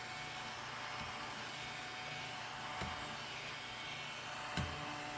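Battery-powered mini desktop vacuum cleaner (ODISTAR) running with a steady, fairly quiet whirring hum as it is swept over a dusty glass surface. Two light knocks come through, near the middle and near the end.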